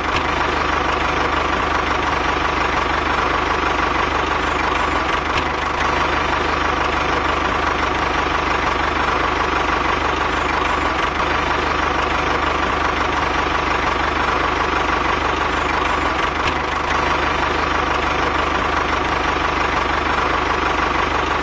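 Engine idling steadily, an even drone with a constant hum and no change in pitch or speed.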